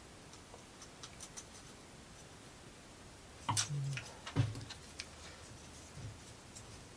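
Light clicks and taps of laser-cut plywood model parts being handled and pressed into their slots, with two louder knocks about three and a half and four and a half seconds in.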